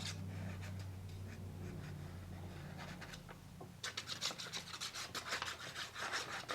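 Paper being rubbed by hand. A quick run of short, scratchy rubbing strokes starts about four seconds in, over a low steady hum.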